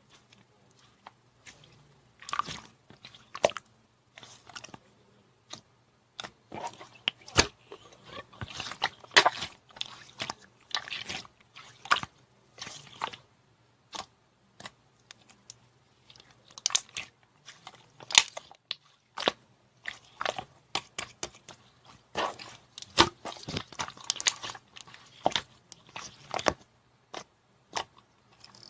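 Slime being squished, poked and stretched by hand, making irregular crackling and clicking pops in uneven clusters.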